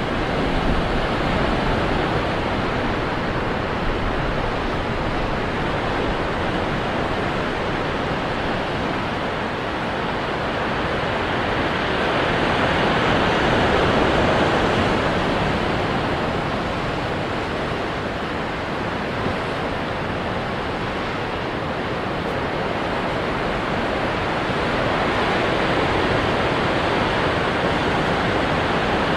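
Ocean surf washing against rocks: a continuous rush of water that swells slowly, peaking about halfway through and building again near the end.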